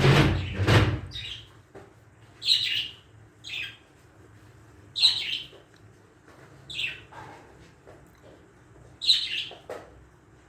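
A bird giving short chirping calls, one every second or two, after a loud burst of noise in the first second.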